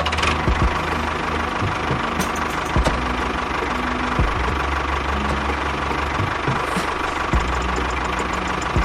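Small engine running steadily with a rough, knocking note, with a few sharp knocks and clatters over it.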